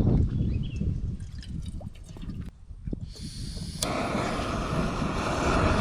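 Wind buffeting the microphone in gusts, with a steady hiss of wind or water joining about four seconds in.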